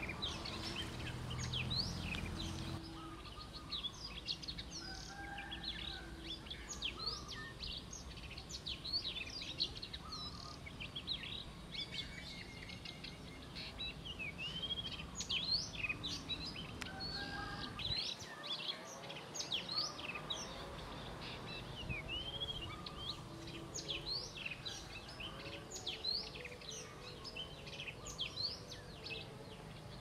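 Birds chirping: many short, high chirps and calls in quick succession, over a low hum that stops about three seconds in.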